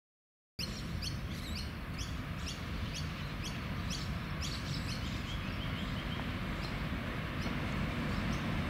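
A bird calling in a quick series of sharp chirps, about three a second, that die away about halfway through. Beneath it a low rumble builds slowly as the R class Hudson steam locomotive R707 draws nearer.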